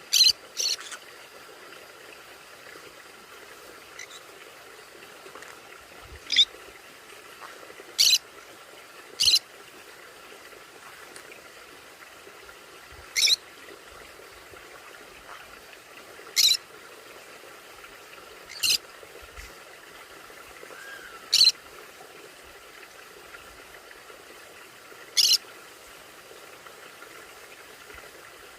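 Conures giving short, sharp, high-pitched single calls, about ten of them spaced irregularly a few seconds apart, over a steady faint background hiss.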